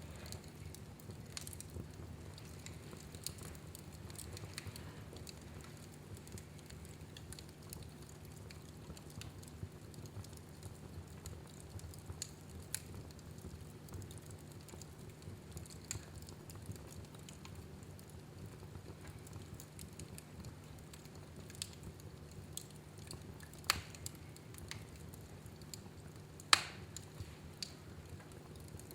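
Wood fire burning in a fireplace: a steady low rumble with scattered sharp crackles and pops, two louder pops near the end.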